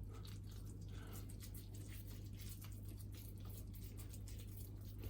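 Faint squishing and patting of raw turkey mince being split and shaped into balls by hand, over a steady low hum.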